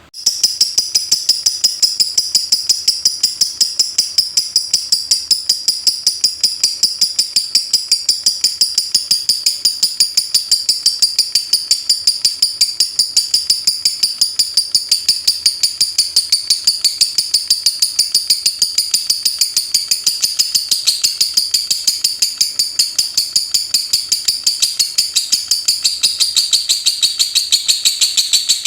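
Lovebird in 'ngetik' song: a fast, even, unbroken run of high, shrill chips, several a second, like rapid typing.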